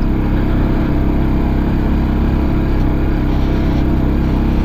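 Peda Tekken 250 motorcycle engine running at a steady, unchanging speed.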